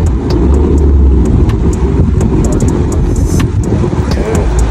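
A car on the move: a steady, loud low engine and road rumble, with many short sharp clicks scattered through it.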